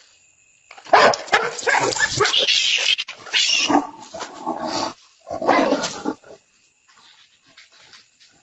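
An animal's loud cries in several bursts from about a second in until about six seconds, then only faint sounds.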